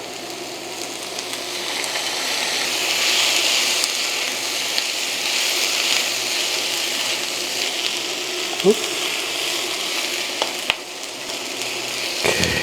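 Mushrooms stir-frying in a hot pan with butter and soy sauce: a steady sizzle that grows louder about two seconds in. A utensil clicks against the pan a few times near the end.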